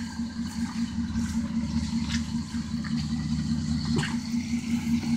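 Off-road vehicle's engine running low and steady as it crawls slowly down a rock ledge, with a few faint knocks from tyres and underside on the rocks.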